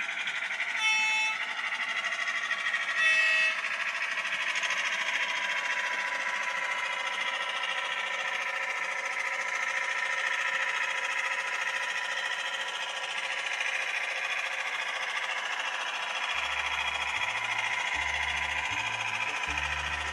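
Model diesel shunter locomotive running along the track with a steady motor and wheel hum. Two short horn blasts sound about one and three seconds in. Music with a pulsing bass line comes in near the end.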